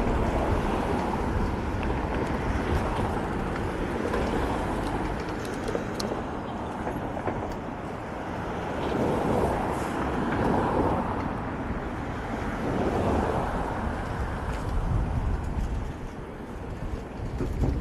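City traffic noise heard while riding a bicycle, mixed with wind rumbling on the microphone, swelling and easing a few times.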